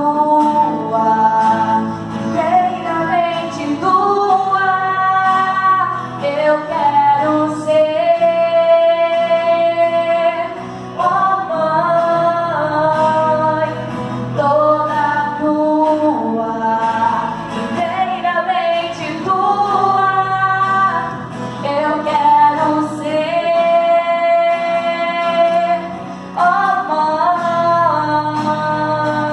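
Music with a woman singing a melody over steady accompaniment, holding some long notes.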